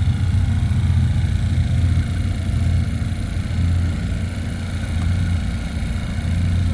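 A car engine running at idle close by, a steady deep exhaust rumble that swells slightly at times.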